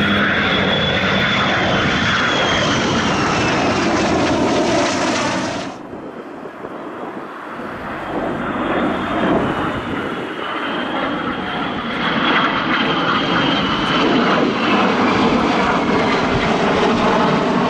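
Jet engines of an F-22 Raptor and F-35A Lightning II flying over together: loud jet noise with a high whine that slowly falls in pitch. The noise drops off abruptly about six seconds in, then builds again with a second whining pass.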